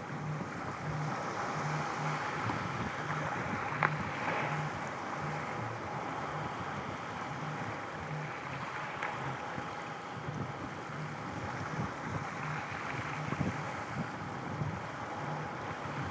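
Steady outdoor wind-and-water ambience, with a faint low beat repeating underneath and a few light clicks.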